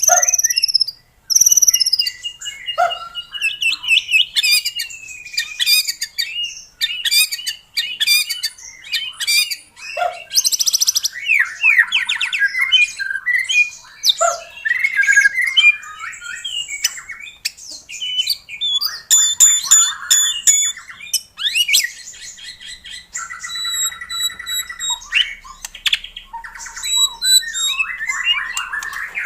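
White-rumped shama (murai batu) singing a long, varied song of clear whistles, gliding notes, rapid trills and harsher chattering phrases, broken by short pauses, with runs of repeated high notes in the second half.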